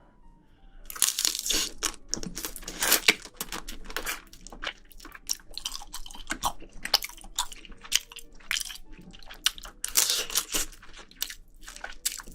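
Close-up crunching and chewing of crab shell and meat, a dense run of sharp cracks and crunches that starts about a second in.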